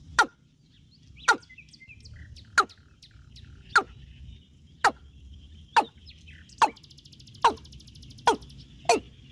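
A bird giving a short, sharp call that slides steeply down in pitch, repeated ten times, about once a second at first and faster toward the end. A high, rapid trill sounds faintly in the background for a moment near the end.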